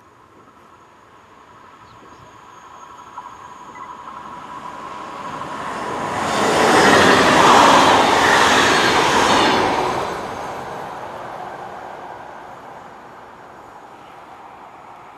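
Double-deck electric TER regional train passing on the line. A faint steady tone and rising rail noise as it approaches, a loud peak of wheel and rail noise as the cars go by about seven to nine seconds in, then fading as it moves away.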